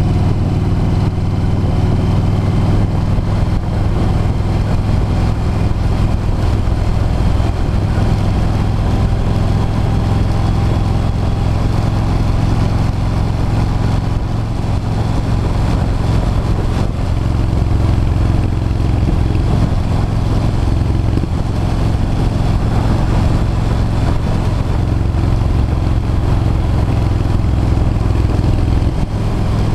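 V-twin cruiser motorcycle engine running steadily at road speed, its pitch shifting slightly now and then, with a steady rush of wind noise.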